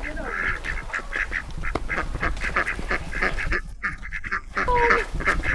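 Ducks quacking in a rapid, continuous run of short calls, several a second, with a brief break about four seconds in.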